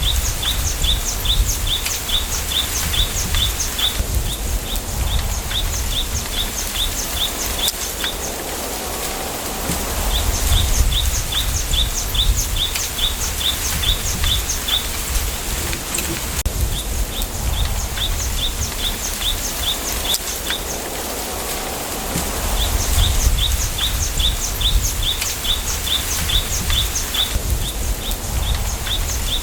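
Bamboo grove ambience: a bird repeats a short high chirp about four times a second, in runs of a few seconds with short pauses, over a steady rustling hiss and a low wind rumble.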